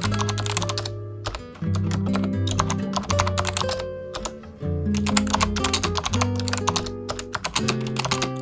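Typing on the restored 1990 Acer 6311 keyboard: a fast, continuous run of key clicks over background music with sustained bass notes.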